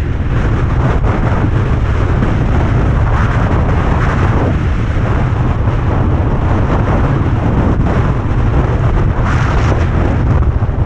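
Blizzard wind buffeting the microphone: a loud, steady low rumble with gusts of hiss.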